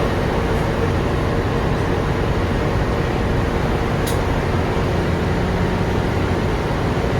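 Steady, loud machinery noise of a ship's engine room: an even noise with a low steady hum under it. A brief sharp click sounds about four seconds in.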